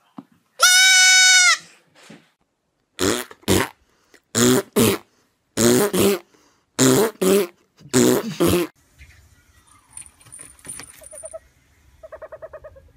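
A young goat kid bleats once, loud and held for about a second. Then come about five pairs of short, rough, breathy sounds, evenly spaced. Near the end a small owl gives a soft, quick trill while it is stroked.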